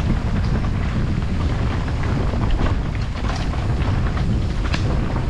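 Wind buffeting the microphone with a constant low rumble, and frequent small rattles and knocks from a bike riding over a rough trail.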